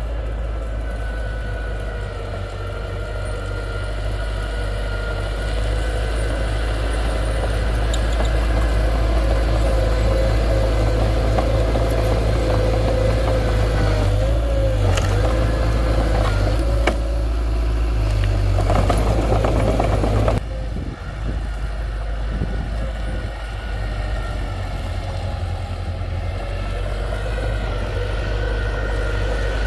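Diesel engine of heavy earthmoving machinery running steadily, with a constant whine over the low hum. The sound grows louder toward the middle, drops suddenly about twenty seconds in, then slowly builds again.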